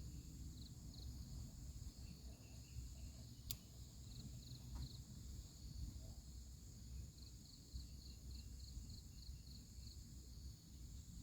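Crickets and other night insects calling, faint: a steady high drone with runs of short, evenly spaced chirps, and a single sharp click about a third of the way in.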